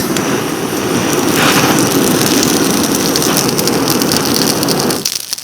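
Gas torch flame burning with a loud, steady rushing hiss for about five seconds as it lights the campfire kindling, then shut off abruptly.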